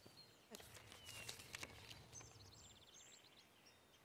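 Faint outdoor ambience with small birds chirping, and a short rustling about half a second to two seconds in.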